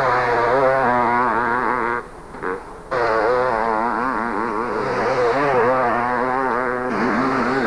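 Two-stroke motocross motorcycle engines racing, the revs rising and falling rapidly over and over. The sound drops away briefly about two seconds in and cuts off sharply at the end.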